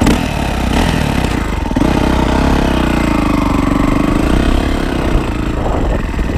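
Yamaha YZ450F's single-cylinder four-stroke engine running under throttle as the dirt bike is ridden, its pitch dipping and climbing again between about two and five seconds in.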